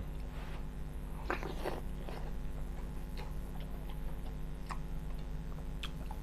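Eating mouth sounds: chewing with scattered small wet smacks and clicks as rice and banana-blossom curry are eaten by hand, with a couple of short puffs of breath about a second and a half in. A steady low hum runs underneath.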